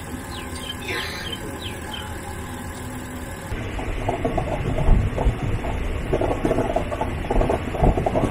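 Birds chirping while the train stands quiet, then, about three and a half seconds in, a third-class passenger coach running along the track: a louder rumble with uneven rattling and clatter from the carriage, through its open window.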